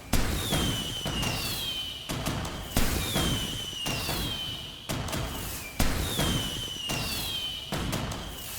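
Fireworks going off: a sharp bang every second or so, each followed by a high whistle that falls in pitch as it fades.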